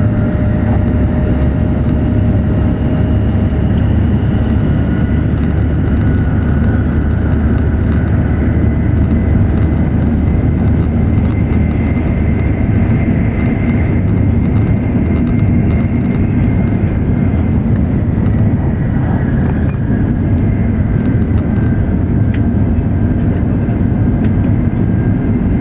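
E7 series Shinkansen running at speed, heard from inside the cabin: a steady, loud low rumble with faint whining tones that drift slowly in pitch, and scattered light ticks.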